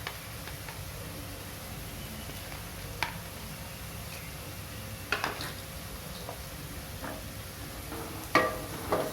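Chopped vegetables sizzling steadily as they are stir-fried in oil in a pan, with a spatula knocking or scraping against the pan three times, about 3, 5 and 8 seconds in.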